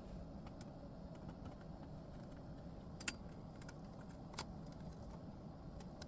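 Two sharp little clicks, about three seconds in and again about a second later, with a few fainter ticks over a low steady background noise.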